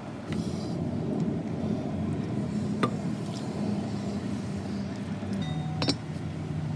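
A steady low hum, with two sharp clinks, one about three seconds in and one near six seconds.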